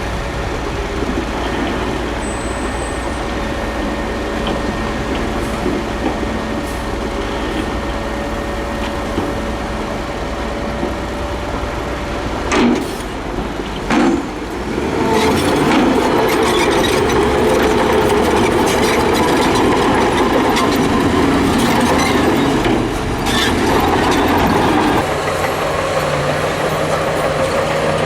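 Heavy diesel earthmoving machinery running steadily, with a thin steady whine over the engine. About halfway through come two short loud bursts, and then the machine runs louder as if working under load.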